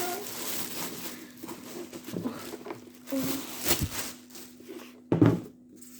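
Things being handled: scattered knocks and rustles, with a louder knock about five seconds in, over a faint steady hum.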